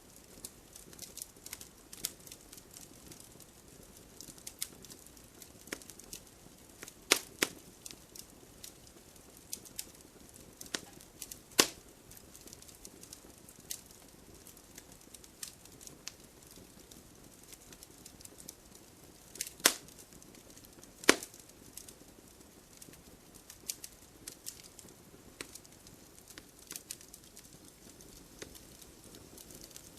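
Wood fire burning with a low hiss and irregular crackling, a few loud sharp pops from the logs about 7, 11 and 20 seconds in.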